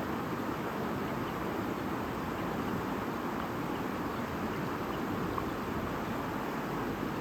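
A shallow stream murmuring steadily over stones.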